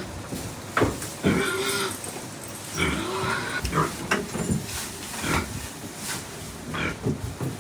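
A farm animal calling in a series of short calls, several in a few seconds.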